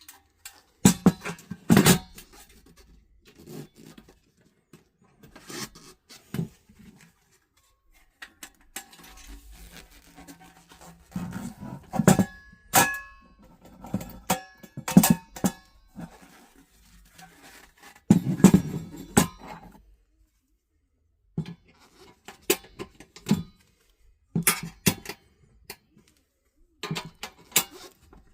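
Irregular sharp metal clicks, taps and knocks of door hardware being handled and fitted, as a push-button handle is installed on a steel electrical panel door. There is a brief ringing squeak about twelve seconds in.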